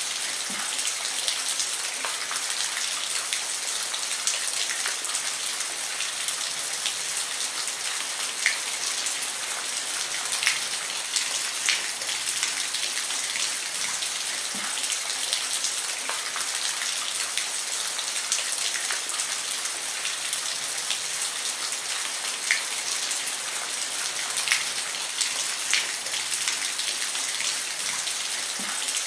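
Steady rain falling on a roof: an even hiss with the sharp ticks of separate drops scattered through it.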